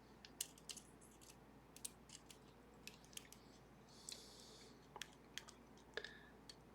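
Faint, irregular clicks and ticks of lock picks working the levers of a Sargent & Greenleaf 4440 series safety deposit box lever lock, with a short scrape a little after four seconds in.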